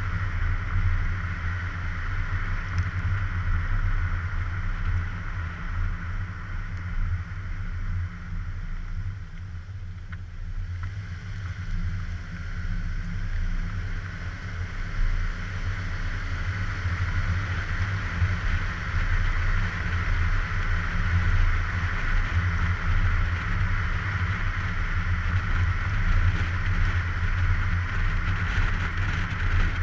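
Car driving, picked up by a suction-cup-mounted GoPro: a steady low rumble of engine, road and wind noise that eases off about ten seconds in and then builds back up.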